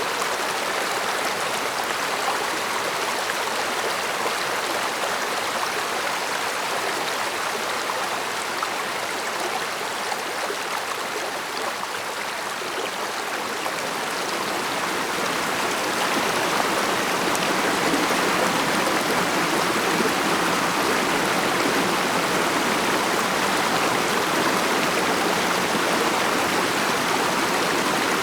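Mountain stream flowing with a steady rushing murmur, growing a little louder and fuller a little past halfway.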